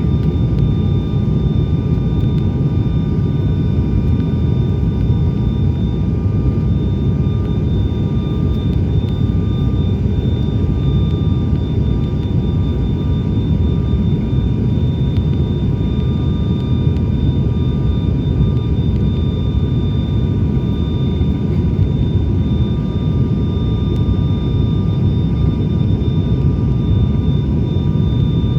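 Steady drone of an ATR 72-600's twin turboprop engines and propellers heard inside the cabin: a deep, even rumble with a few thin, unchanging whines on top.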